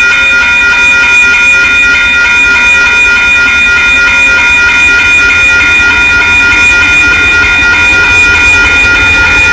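Locomotive multi-chime air horn blowing one long, loud, steady chord over the low rumble of the train.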